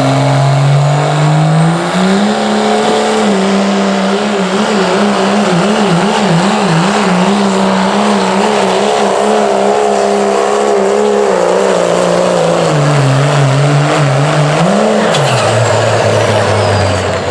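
Modified street-class diesel pickup engine running hard under load on a pulling sled. Its pitch climbs about two seconds in and holds high with a wavering, then drops off near the end, with one short rev before falling back.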